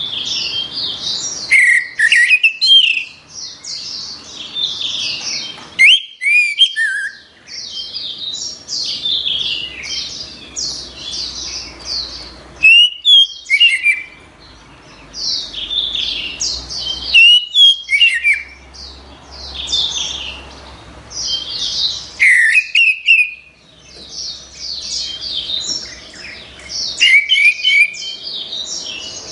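Orange-headed thrush singing: long bouts of fast, varied, high twittering phrases, broken by a few short pauses.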